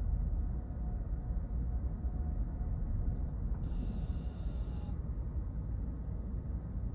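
Steady low rumble of a car driving, heard from inside: road and engine noise. About halfway through, a brief high tone sounds for a little over a second.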